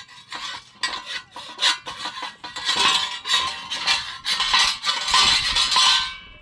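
Rapid, irregular scraping and clinking strokes that stop near the end.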